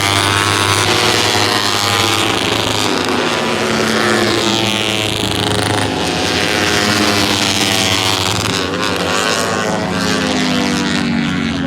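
Several Moto3 race bikes, each with a 250 cc single-cylinder four-stroke engine, running at high revs past the track. The engine notes overlap, rising and falling in pitch as the bikes pass and shift gear.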